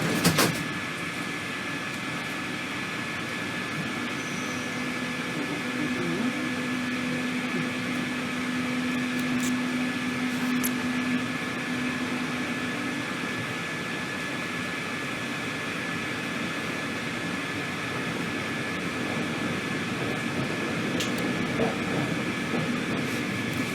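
Madrid Metro Line 5 train heard from inside the carriage: a steady mechanical hum with a constant high tone. A lower tone joins from about 4 to 13 seconds in, and there are a few sharp clicks near the start and around 10 seconds in.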